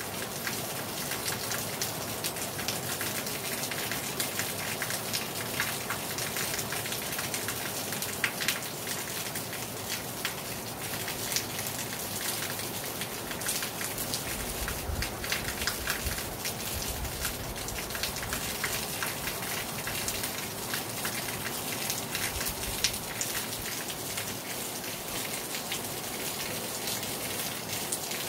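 Heavy rain falling on a terrace: a steady hiss with many close drops ticking on the surface.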